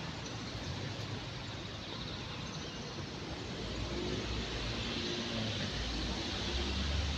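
Steady outdoor background noise: an even hiss over a low rumble that swells in the second half, with a faint hum in it partway through.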